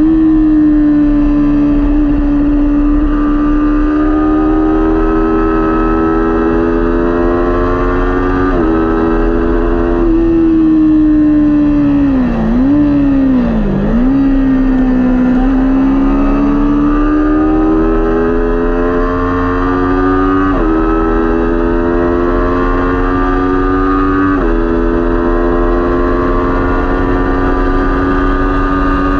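Kawasaki Ninja 400 parallel-twin race engine running hard at high revs. Its pitch climbs slowly through each gear and drops sharply at upshifts, about four times. Near the middle it falls off and dips twice, as on downshifts into a corner.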